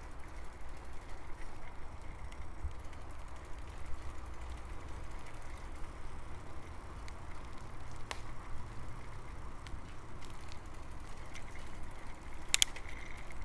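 Bicycle ride heard from the bike: a steady low rumble of tyres on the path and wind on the microphone, with a few sharp clicks or rattles, the loudest a quick double click near the end.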